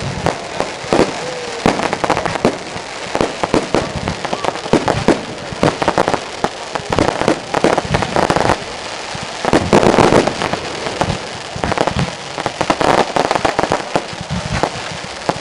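Aerial firework display: a rapid, continuous run of bangs and crackling bursts, thickening into a louder volley about ten seconds in.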